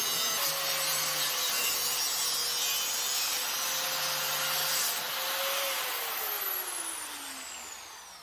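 Electric power tool cutting through a pulley shaft, running steadily under load. About five and a half seconds in it is switched off, and its whine falls in pitch as it spins down.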